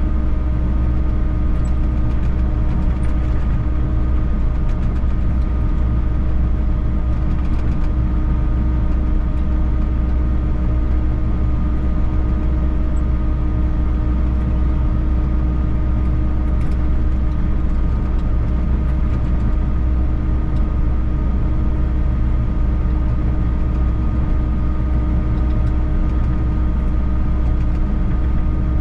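Volvo EC60E mini excavator's diesel engine running at a steady speed, a constant low rumble with a steady hum over it and no change in pitch.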